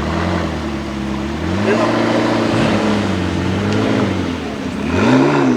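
Car engine revving, its pitch climbing about a second and a half in, holding, then dropping about four seconds in, with another short rev near the end.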